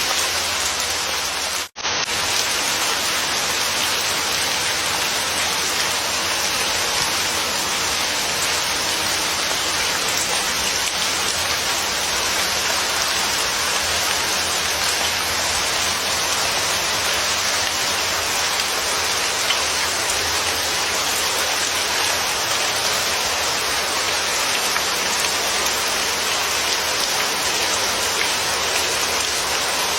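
Steady heavy rain: an even, continuous hiss of rain falling on a surface. It drops out briefly for a split second just under two seconds in.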